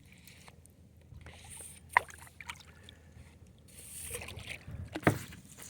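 Kayak paddling: water washing and splashing softly off the paddle blades, rising and fading with the strokes, with two sharp knocks, about two and five seconds in.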